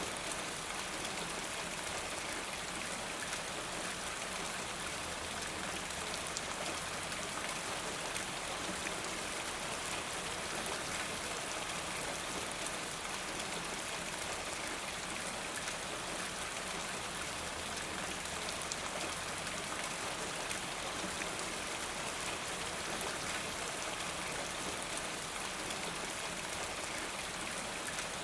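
Steady rain falling, with a dense patter of raindrops on a surface.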